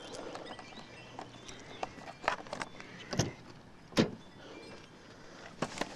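A string of clicks, rattles and clunks from handling parts of a car, with two louder thumps about three and four seconds in.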